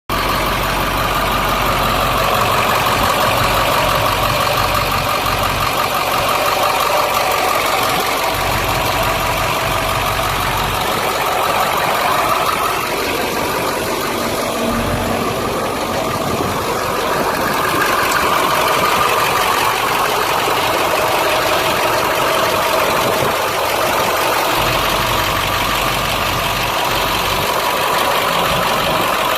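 2000 International 4700 truck's diesel engine idling steadily.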